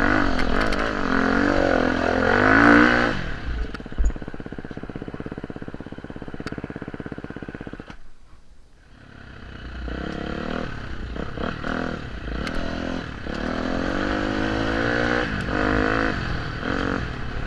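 Off-road motorcycle engine running on the trail. It revs up in the first few seconds, then runs more evenly with a single knock about four seconds in. It falls away almost to nothing about eight seconds in, then picks up again with repeated short throttle rises.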